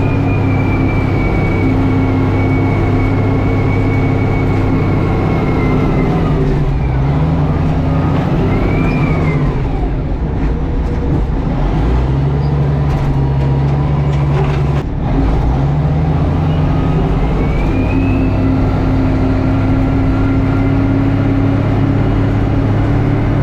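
Tractor engine running steadily while plowing compacted snow and ice, with a high whine over it. Its pitch sags and recovers twice, about a third of the way in and again past the middle, as the load comes on.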